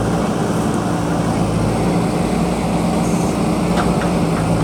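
JCB backhoe loader's diesel engine running steadily at working revs, with two faint clicks about four seconds in.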